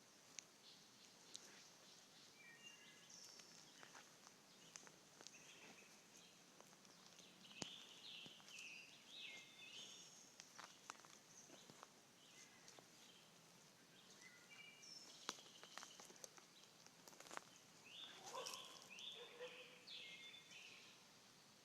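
A bird singing faintly in short chirping phrases that come again several times, with a few sharp clicks in between.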